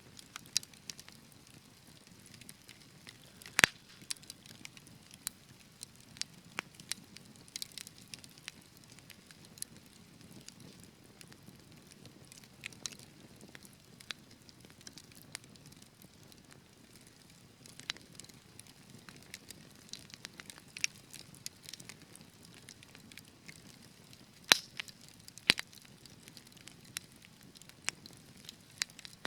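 Wood fire crackling: a low steady hiss with frequent, irregular sharp pops and snaps, the loudest pop about three and a half seconds in and two more near the end.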